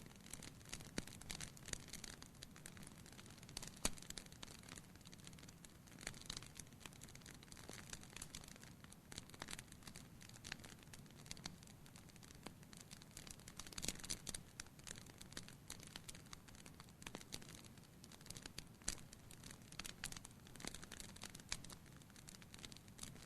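Wood fire crackling, with irregular sharp pops and snaps over a low hiss; one louder pop about four seconds in.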